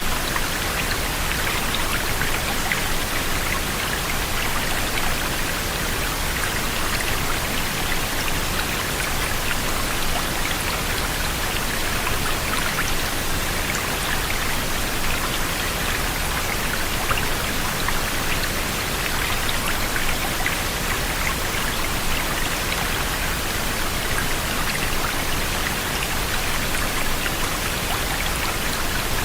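Waterfall: a steady rush of falling water with fine splashing ticks throughout.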